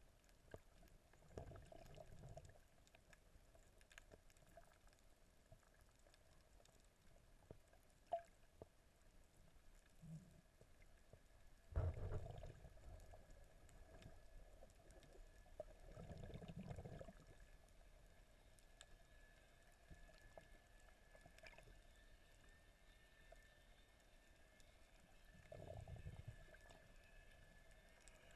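Faint, muffled water sound picked up by a snorkeller's camera in the water, with a few low sloshing swells of water movement and a single sharp tick.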